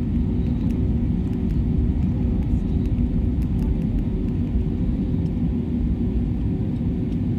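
Airbus A320neo jet engines and airflow heard from inside the cabin: a loud, steady rumble with a constant engine hum on top.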